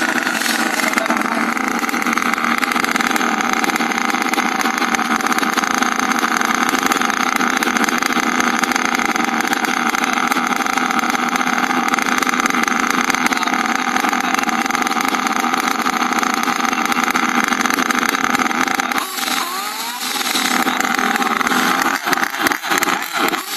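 Radio-controlled car motors running hard in a steady, high-pitched drone. Near the end the sound dips, then breaks up into short, choppy pulses.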